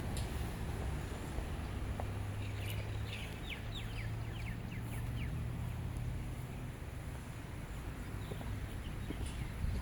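Outdoor ambience over a steady low rumble, with a bird calling a quick run of short downward-sweeping notes about three to four seconds in.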